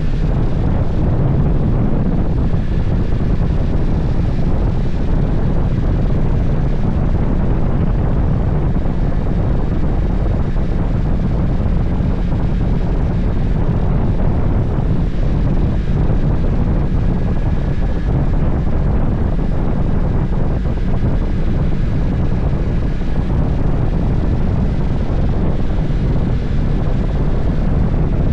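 Steady, loud wind buffeting on the microphone, mixed with the engine and road noise of a motorcycle under way.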